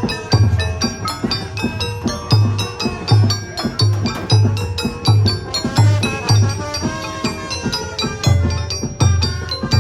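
Traditional funeral music: a quick melody of short, bright mallet-struck notes over low, irregular drum strokes.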